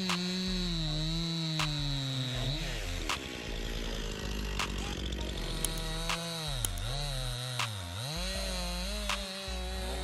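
Chainsaw running while cutting wood. Its engine note sinks as it bogs under load in the cut, then dips sharply twice and recovers near the end, with scattered sharp cracks over the top.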